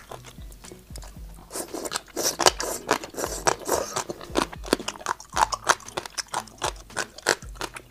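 A person chewing crisp gongcai (dried celtuce stems) from a spicy braised dish, with many sharp, irregular crunches several times a second.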